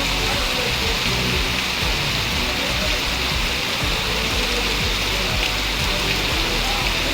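Heavy rain falling steadily, a dense even hiss, with background music underneath.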